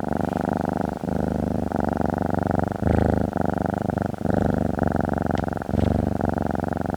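Domestic cat purring steadily, in rhythmic phrases of about a second each with brief breaks between them.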